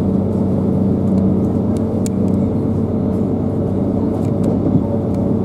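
Steady running drone of a Class 158 diesel multiple unit, heard from inside the carriage: an even engine hum with a few faint rail clicks.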